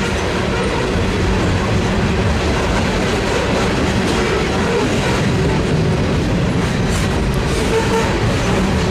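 Canadian National freight train's cars rolling past on the rails: a steady, loud rumble of steel wheels on track with a few faint sharp clicks.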